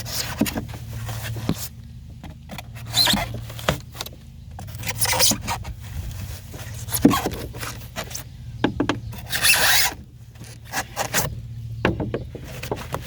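Rigid pour-in flotation foam squeaking and scraping against an aluminum boat hull as a cut section is pushed down and pried loose, in irregular rough bursts of varying length, the longest near the end.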